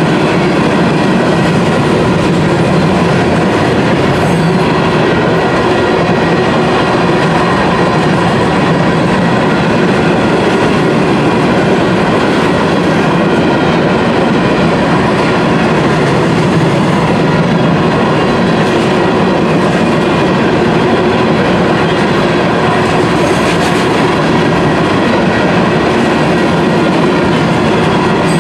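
Union Pacific freight train's covered hopper cars rolling past close by: a loud, steady rolling noise of steel wheels on rail that does not let up.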